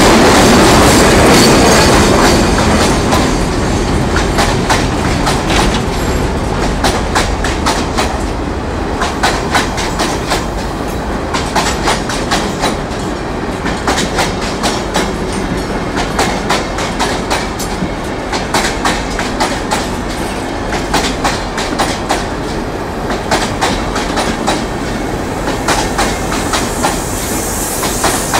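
Freight train's hopper wagons rolling past close by, their wheels clicking over the rail joints in a continuous clickety-clack over a steady rumble. It is loudest in the first few seconds, then holds steady.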